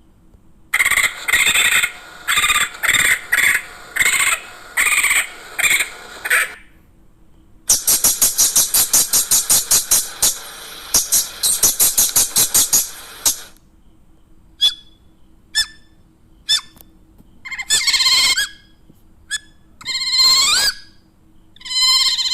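A string of different animal calls, bird-like chirps and squeaks: several repeated calls first, then a fast pulsing run of about six calls a second, then short single chirps, and finally calls that glide up and down in pitch.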